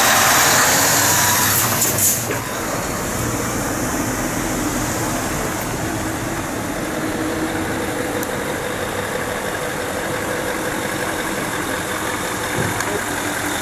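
Lorry engine idling steadily, with a brief knock about two seconds in.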